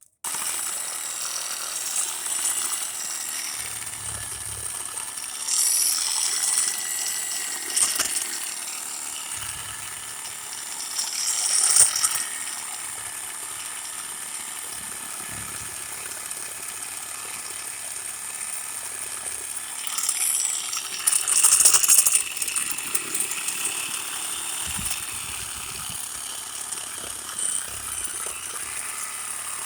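DeWalt DCS381 20-volt cordless reciprocating saw with a pruning blade cutting through tree limbs. The motor's high whine runs steadily, with a few louder surges as the blade bites harder into the wood.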